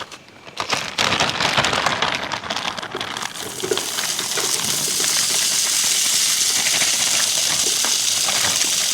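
Diced potatoes sizzling on a hot camp griddle: a few clicks, then a loud sizzle about a second in as they go on, settling into a steady frying hiss.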